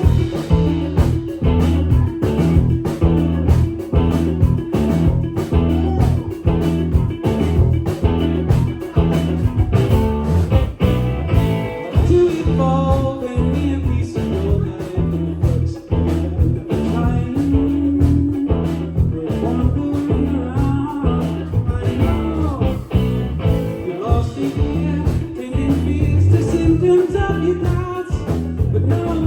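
A live rock band playing, with electric guitar, bass and drums at a steady beat, and a voice singing over it from about halfway through.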